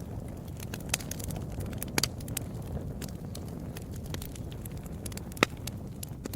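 Wood fire in a fireplace crackling, with irregular sharp pops over a steady low rumble of the flames; the loudest pop comes about five seconds in.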